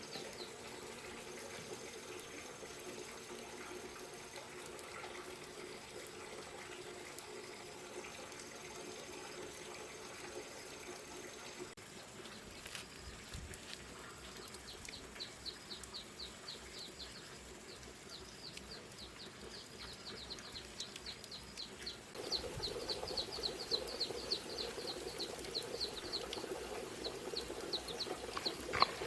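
Water running steadily. About halfway through, a rapid high chirping begins alongside it and grows louder near the end.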